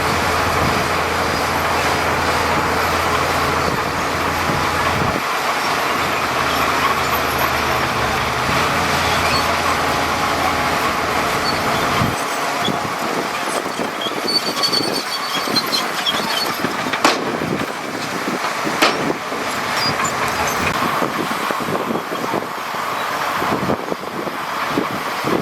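Heavy diesel earthmoving machinery running with a steady low engine note. The low note drops away about halfway through, leaving a steady mechanical noise with a couple of sharp metallic clicks.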